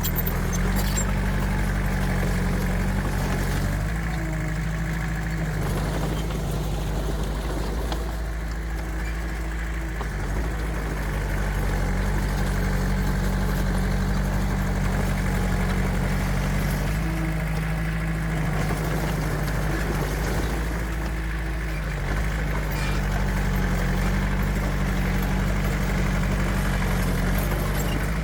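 Diesel engine of heavy earthmoving machinery running steadily, easing off slightly twice.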